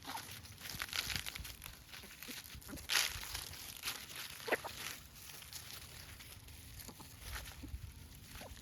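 Free-range chickens foraging at their feed: scattered light taps and rustles, with a few sharper ticks and no sustained calling.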